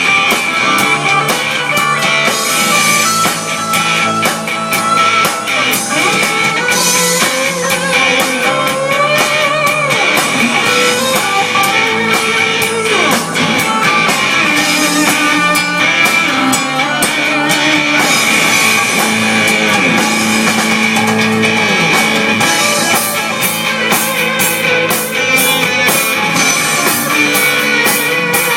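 Live rock band playing loudly with electric guitar and drum kit, with a steady high tone under the music.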